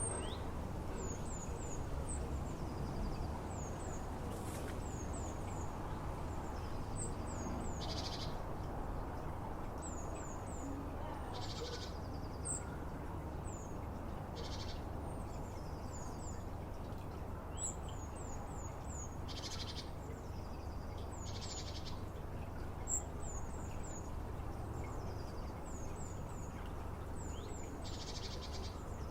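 Small songbirds calling: sharp, high, down-slurred notes in quick groups of two to four, repeated every second or two, with a short dry trill now and then. A steady low rumble runs underneath.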